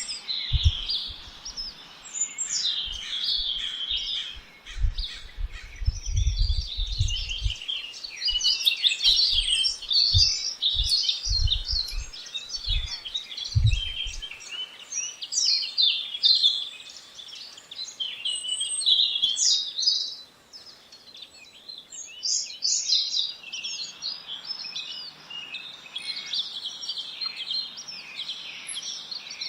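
Many small birds chirping and singing at once in a dense, overlapping chorus of short high-pitched calls and trills. Low thumps come at intervals during the first half.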